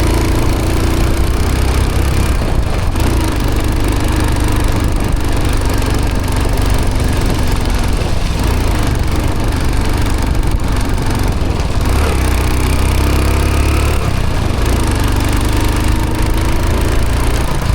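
1995 Hero Honda CD100's single-cylinder four-stroke engine running on the move, its pitch shifting as the revs rise and fall, over a steady low rumble.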